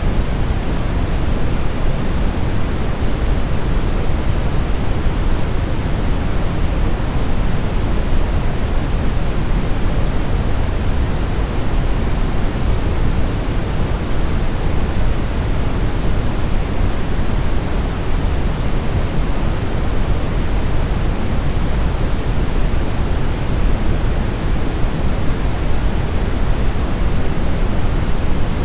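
Steady brown noise: an even, unbroken hiss heaviest in the low end, like a deep rumbling rush, with no changes.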